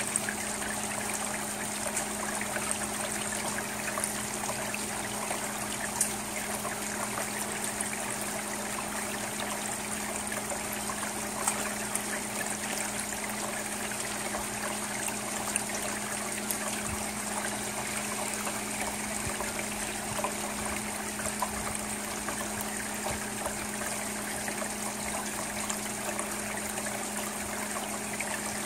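Steady rain falling on a shingle roof and gutter: an even hiss with scattered sharp taps of drops landing close by, under a faint low steady hum.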